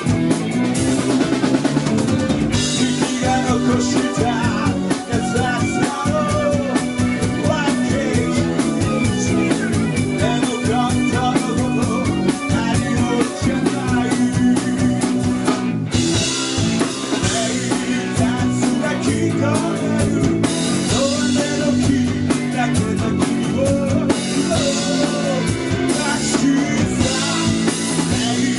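Live rock band playing an instrumental passage of a song, with a full drum kit (snare, bass drum and rimshots) driving under bass and bending lead lines.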